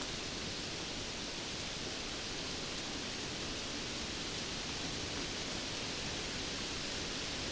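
Steady rain falling, a dense, even hiss with no separate drops standing out and no change in level.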